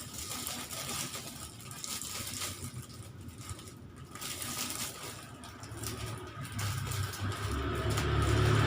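Plastic snack packaging and wrapping bags crinkling and rustling as they are handled, in irregular crackles. Near the end a low motor-vehicle engine rumble builds up underneath.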